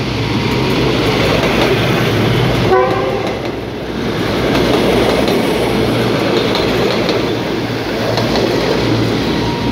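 Diesel railcar train passing close by: engine running and wheels rolling on the rails in a steady loud rumble, with a short toot of the horn about three seconds in.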